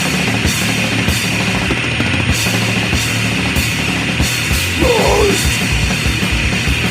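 Swedish crust punk band recording playing at full tilt: distorted guitars and bass over drums with regular cymbal crashes, and a brief sliding tone about five seconds in.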